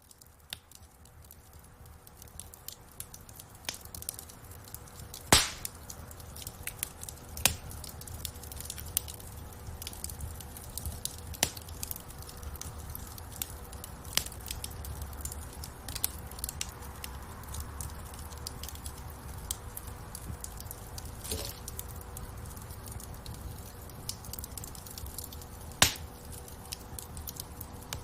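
Wood fire crackling in a fireplace, with scattered small snaps and a few sharp, louder pops over a low rumble of flame. The sound fades up from near silence over the first few seconds.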